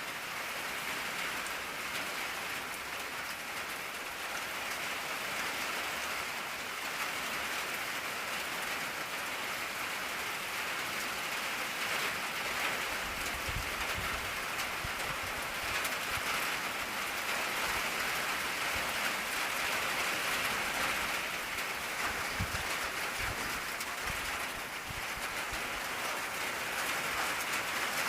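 Steady rain drumming on an old tin roof, a dense patter with a few brief low rumbles in the middle.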